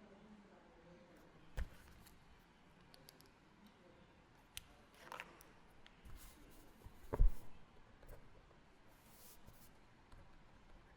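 Quiet library room ambience with scattered small clicks, knocks and handling noises and a brief rustle. The loudest sound is a dull thump about seven seconds in, with a smaller one about a second and a half in.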